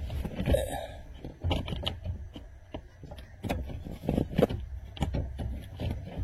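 Irregular clicks, knocks and scrapes of hand tools and metal parts as a fastener on a steering rack is being undone.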